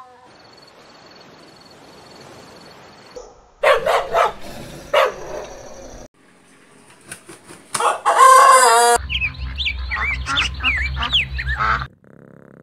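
Chickens clucking and a rooster crowing, in a run of short clips that cut abruptly from one to the next.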